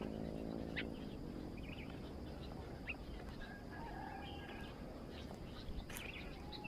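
Scattered faint bird chirps and short calls in open countryside, with quick upward-sweeping notes about a second in and again near the middle. A low hum fades out in the first second.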